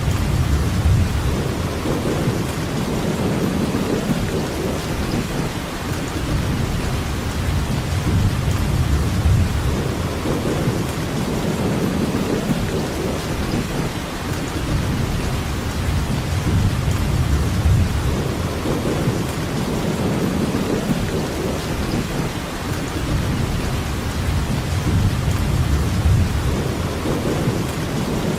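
Steady heavy rain with low, rolling thunder rumbles that swell and fade every few seconds.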